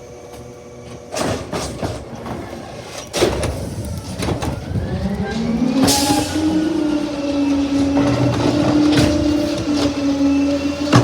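Garbage truck with a few sharp clanks, then its engine revving up about halfway through and holding a steady, higher hum.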